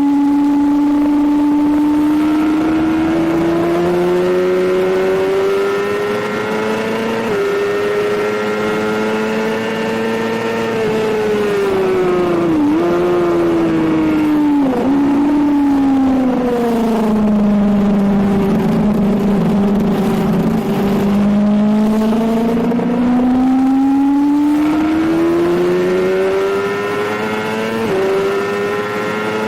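Suzuki GSX-R750 K7 inline-four sport bike engine at speed on track: the engine note climbs under acceleration with a brief step at each upshift, then drops with two quick blipped downshifts into a slow corner before pulling hard again.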